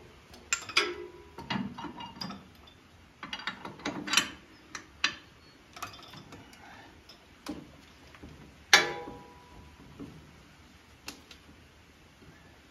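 Irregular metallic clicks and clanks of hand tools and steel tractor-hitch parts being handled and adjusted, with one louder ringing clank about nine seconds in.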